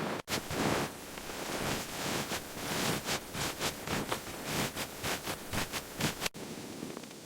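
Snow crunching and scraping in a quick irregular run of strokes, three or four a second, over a steady rushing hiss.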